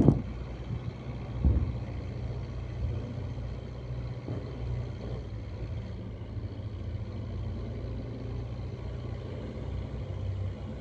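Tractor engine running steadily at an even low pitch, with a brief thump about a second and a half in.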